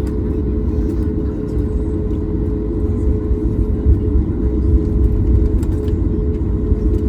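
Cabin noise of a Boeing 737 MAX 8 taxiing after landing: a steady low rumble with a constant mid-pitched hum running through it.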